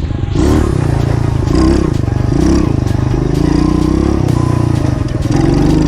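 Pit bike engine revving up and falling back over and over while being ridden, its pitch climbing and dropping about once a second.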